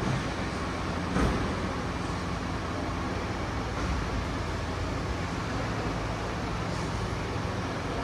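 Steady road traffic with a low engine hum, and a short knock about a second in.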